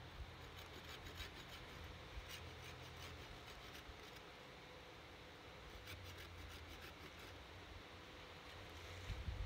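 Faint scraping strokes of a knife shaving bark and wood off a freshly cut pole, in two runs of quick strokes, the second starting about six seconds in.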